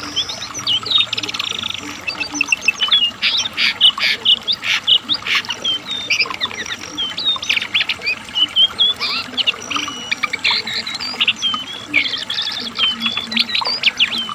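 Lesser shortwing (cingcoang, or jongkangan coklat) singing a long, fast, varied song of short chirps, slurred whistles and rapid trills that keeps going without pause.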